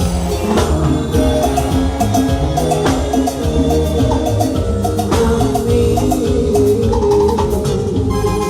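Live Latin dance band playing an instrumental passage: a steady beat on drums and percussion under short, repeated melodic notes, with no singing.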